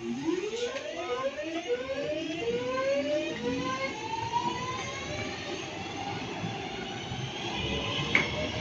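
Class 323 electric multiple unit accelerating away from the platform, its traction equipment singing in a series of rising tones that climb one after another in steps. A brief sharp high sound comes near the end.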